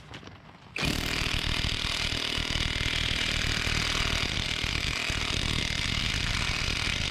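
Impact wrench starting about a second in and hammering steadily on an old lug nut, drawing a new wheel stud into the axle shaft's flange.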